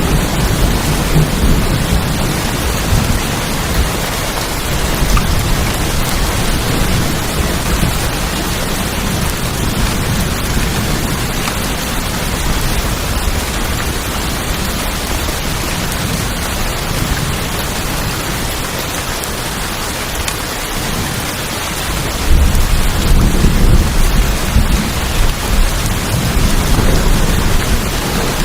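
Heavy rain drumming steadily on a tin roof, with a deeper low rumble that swells near the start and again about two-thirds of the way through.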